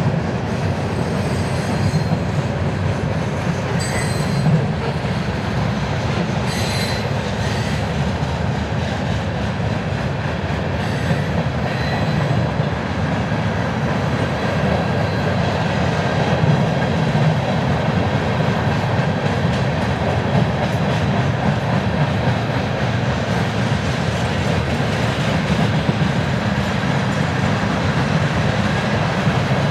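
Freight cars of a manifest train rolling past: a steady rumble of steel wheels on rail, with a few short, high-pitched wheel squeals in the first dozen seconds.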